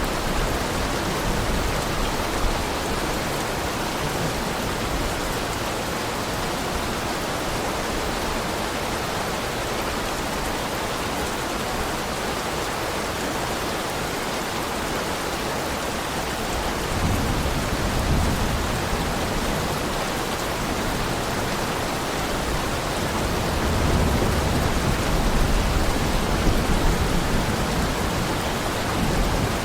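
Steady heavy rain, with low rolls of thunder swelling up twice, once past the middle and again near the end.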